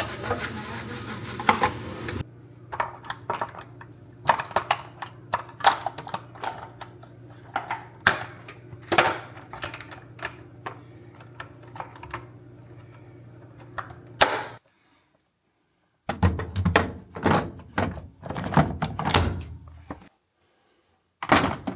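Irregular clunks and clicks of hard plastic, in bursts: a washing machine's detergent drawer and its pop-out softener insert being handled and knocked about.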